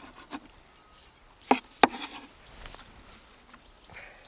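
A kitchen knife knocking on a wooden cutting board a few times while porcini mushrooms are cut, the two sharpest knocks about a second and a half in.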